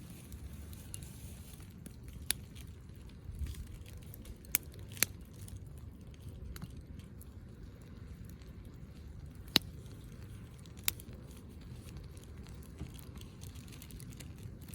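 Wood campfire burning with a soft steady rustle and a handful of sharp pops from the burning wood, the loudest about two-thirds of the way through.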